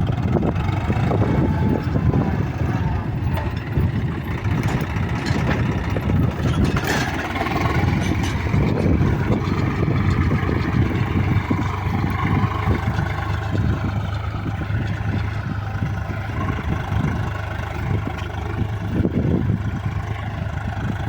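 Swaraj 735 FE tractor's three-cylinder diesel engine running steadily as it works a muddy field, its pitch wavering slightly.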